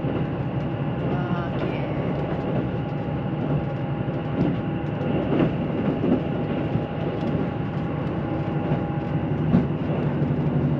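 Cabin of a JR Central KiHa 85 series diesel express train under way: a steady drone of the diesel engines and running gear, with a few faint clicks from the rails.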